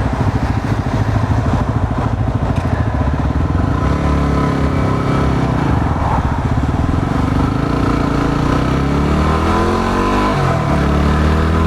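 Yamaha WR250R's single-cylinder engine running on the road, with wind noise. After a few seconds the engine note climbs steadily as the bike pulls away, then drops near the end.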